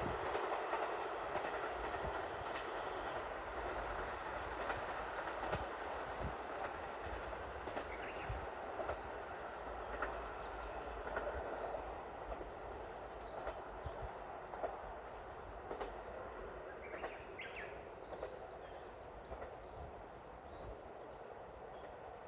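A diesel express train running along the track and slowly fading as it moves away, with scattered wheel clicks over the rail joints.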